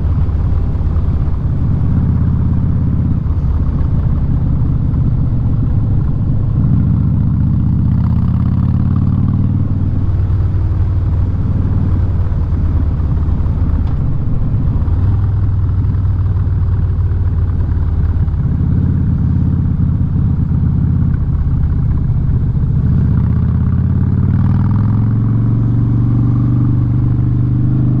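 2017 Harley-Davidson Street Bob's V-twin engine running loud through a Vance & Hines exhaust while riding, its pitch shifting up and down with engine speed.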